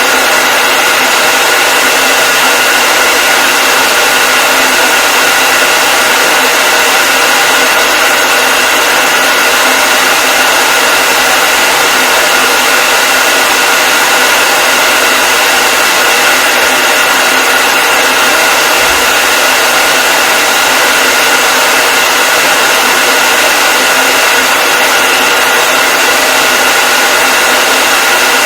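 Hair dryer running continuously: a steady, loud airflow rush with a constant high motor whine through it, unchanging throughout.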